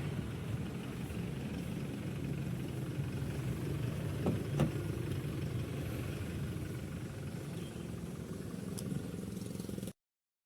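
Vehicle engine running steadily with a low hum, with a brief knock about four and a half seconds in; the sound cuts off suddenly near the end.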